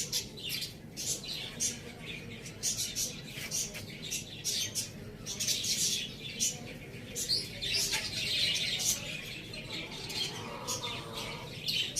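Many small birds chirping busily, a dense run of short, high-pitched chirps overlapping one another, with a fainter lower call near the end.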